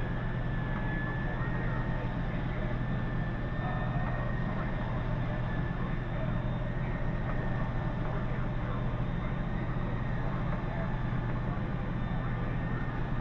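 Steady low machine hum with a noisy haze over it, unchanging throughout.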